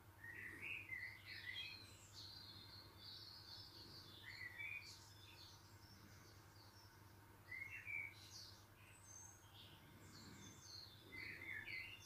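Faint songbird chirping: several short, wavering phrases of high chirps come and go, over a low steady background hum.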